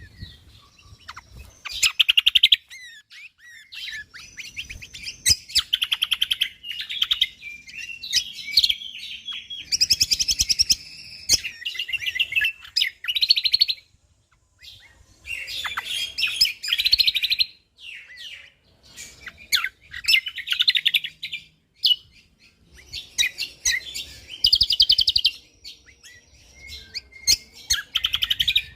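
A cucak kombok (kecial kombok) songbird singing in loud, rapid bursts of tightly packed chirps and high trills, each burst lasting a second or two, with short pauses between them.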